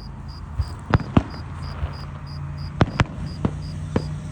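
Fireworks popping: several sharp cracks, some in quick pairs, over a cricket chirping steadily about three times a second and a low steady hum.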